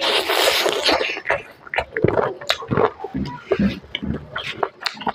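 Close-miked chewing of smoked chicken, with wet smacking and squishing mouth sounds in an uneven rhythm, opening with a louder noisy rush in the first second as a bite is taken.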